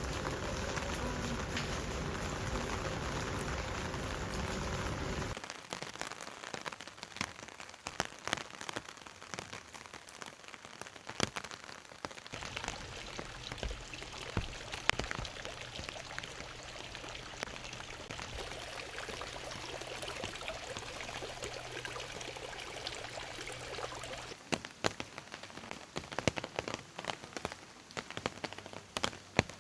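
Steady rain falling, with single drops ticking sharply and irregularly close by. For the first five seconds or so a louder, denser noise lies over it, then cuts off suddenly.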